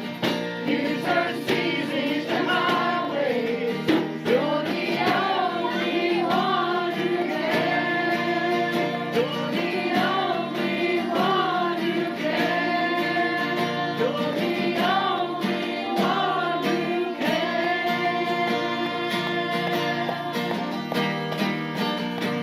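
Congregational worship singing with guitar accompaniment: a group of voices sings a praise song together.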